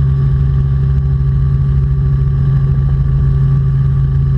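Robinson R44 Clipper II helicopter cabin noise in flight: a steady, loud drone of the engine and rotors with a constant hum, unchanging throughout.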